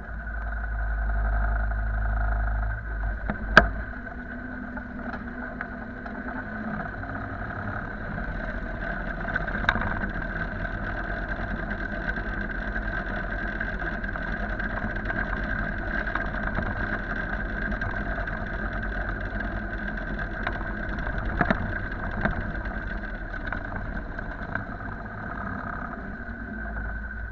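An engine running steadily, with a heavier low rumble for the first three seconds and a sharp click about three and a half seconds in.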